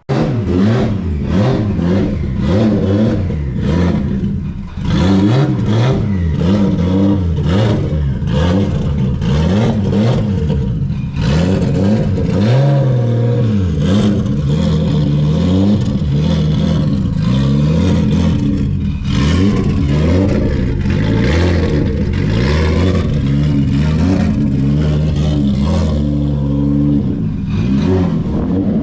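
Nissan Skyline R32 drift car's engine under hard acceleration, its pitch climbing and dropping again and again as it revs through the gears.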